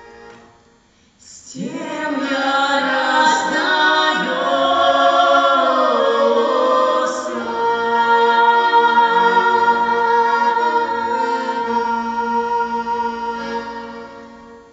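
Singing with musical accompaniment. It starts about a second and a half in and ends on a long held note that fades near the end.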